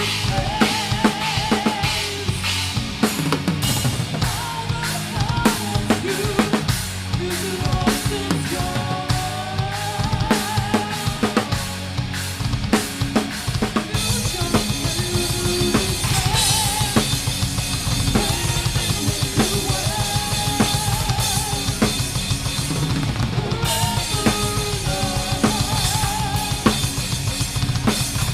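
A band playing live, heard from the drummer's position: a Pearl Masters drum kit with rapid bass-drum beats and snare hits under sustained low instrument notes and a wavering melody line. About halfway through, a steady cymbal wash comes in, dropping out a few seconds before the end.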